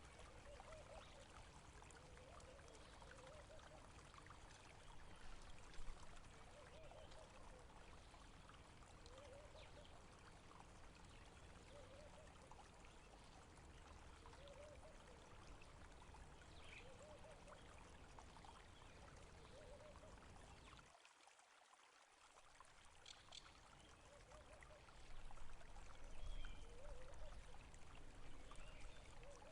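Faint running water, a small stream trickling and gurgling steadily. It dips briefly about two-thirds of the way through and comes back louder near the end.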